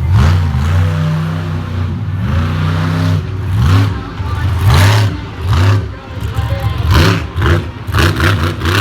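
Monster truck engine revving hard in quick repeated blips, the pitch rising and falling every half second or so, with several short loud bursts of noise in the second half.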